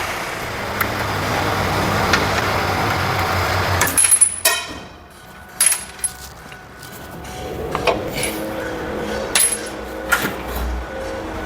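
A steady machine noise cuts off about four seconds in. Scattered sharp metallic clicks and clinks follow: tools and metal hose fittings being handled on a workbench, some strikes ringing briefly.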